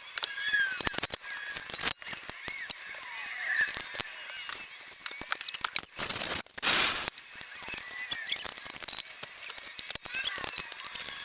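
Scattered clicks and light clanks of hand work on a small pressure-washer engine, with birds chirping. A hiss lasting about a second comes about six seconds in.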